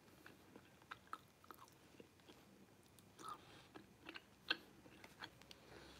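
Faint chewing of a mouthful of beef stir-fry noodles, with scattered small clicks and mouth smacks.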